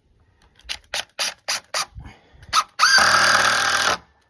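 Power drill driving a screw into a wooden dock step: a string of short sharp clicks, then one steady run of the drill lasting about a second near the end.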